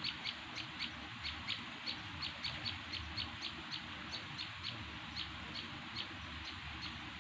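A small bird calling a long run of short, high, slightly down-sliding notes, about three a second, slowing a little towards the end, over a steady outdoor hiss.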